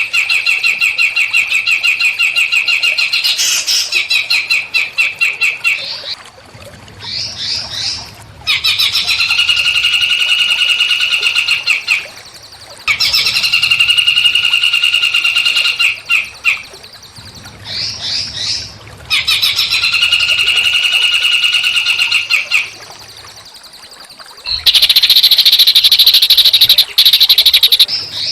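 Small songbird singing: long, fast, buzzy trills of a few seconds each, repeated with short quick chirping phrases between them, and a louder, higher-pitched rattling trill near the end.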